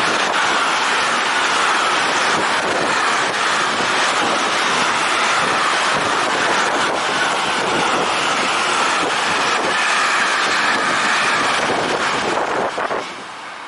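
Intermodal freight train of pocket wagons carrying truck semitrailers rolling past close by: a loud, steady rush of wheels on rail that drops away sharply near the end.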